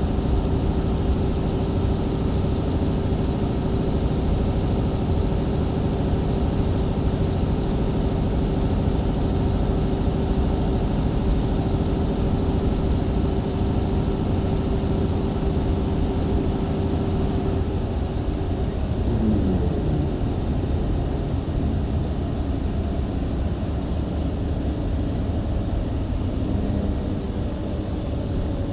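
Mercedes-Benz Citaro C2 LE MÜ Hybrid bus with Voith automatic gearbox, heard from inside the cabin: diesel engine and drivetrain running steadily at country-road speed over road rumble. A little past halfway the engine note changes and a tone sweeps down in pitch, then settles into steady running again.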